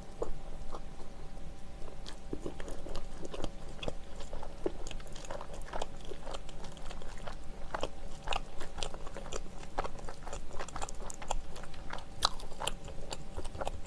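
Close-miked chewing of soft bread: many small wet mouth clicks and smacks, coming thicker from about halfway through.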